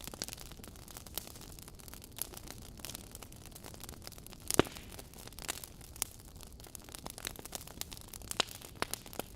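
Fireplace crackling: irregular snaps and pops over a soft hiss, with one loud pop about halfway through.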